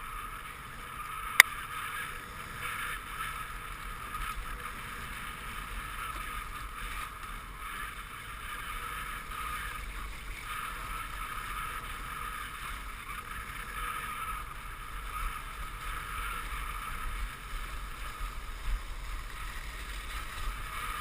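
Dog sled runners hissing steadily over a snow trail as a four-dog husky team pulls the sled, with wind rumbling on the microphone. There is one sharp click about a second and a half in.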